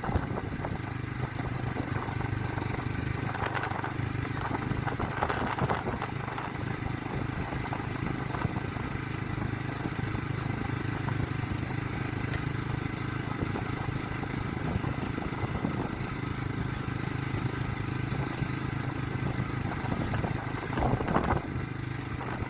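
Motorcycle engine running at a steady pace while riding, with road and wind noise and a few brief clatters, around three and five seconds in and again near the end.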